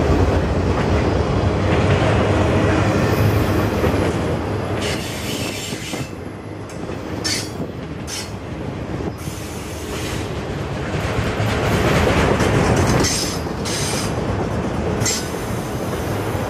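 CN freight train rolling past close by: the steel wheels of multilevel autorack cars rumble and clack over the rail. Several brief high-pitched screeches come through, and the loudness dips in the middle before rising again.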